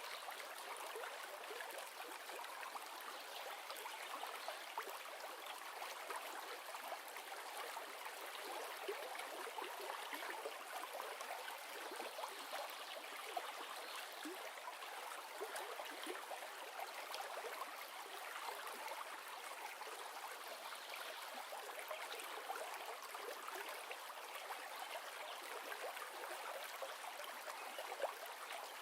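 Flowing river: a steady rush of water with light gurgling and splashing.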